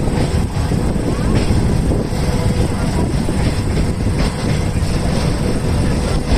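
Passenger train running on the line: a steady rumble of wheels on the rails, with a few faint clicks.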